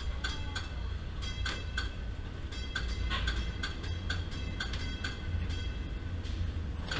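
Streetcar rolling on its rails while coasting without power through a dead section of overhead wire. A steady low rumble runs under many short, high metallic clicks.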